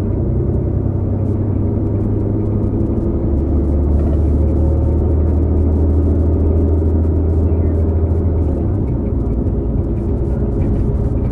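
2018 New Flyer XD40 transit bus running, its Cummins L9 diesel and Allison B3400xFE transmission giving a steady drone with several steady tones layered above it; the lowest part of the drone changes about two-thirds of the way in. The odd tone is the transmission bearing noise heard on several buses of this series, a sign of a bearing issue.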